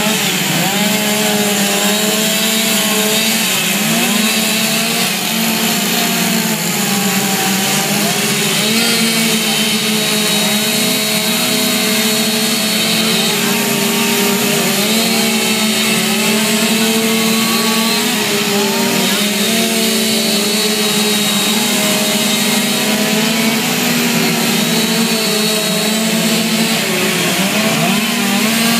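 Two-stroke chainsaw engines running at high revs, pitch wavering slightly as the saws cut wood.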